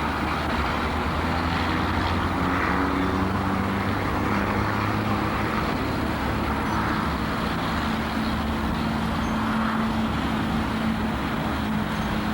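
An engine running with a steady low hum. Its pitch shifts during the first few seconds, then holds steady. Heavy tape hiss lies under it.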